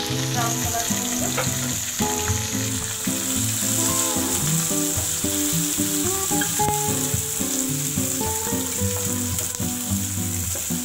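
Sliced onions, garlic and green chillies sizzling in hot mustard oil in a frying pan, stirred now and then with a spatula. Instrumental background music plays over it.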